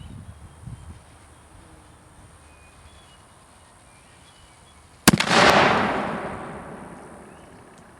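A 1.75-inch black-powder Dahlgren boat howitzer fires a canister round. There is one sharp report about five seconds in, followed by a rolling echo that fades away over about two seconds.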